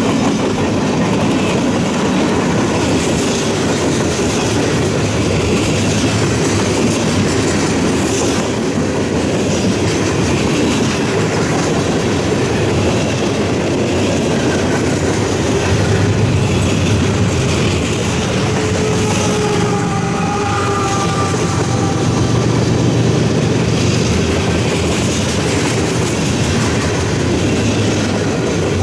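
A train rolling past, its cars' wheels running over the rail joints with a steady clickety-clack. About twenty seconds in there is a faint high wheel squeal.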